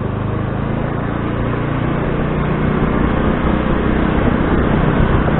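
Motor scooter's small engine running while riding, with a steady noisy rush over it; it grows a little louder after about a second and a half.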